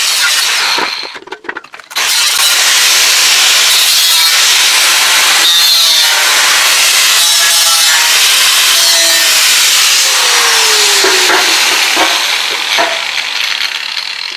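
Angle grinder cutting and grinding steel square tubing to make it fit. A short run stops about a second in, then a long steady run starts about two seconds in and eases off near the end.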